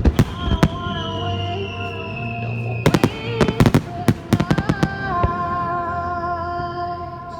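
Fireworks going off: a few sharp bangs at the start, then rapid clusters of bangs around the middle, over music with long held notes.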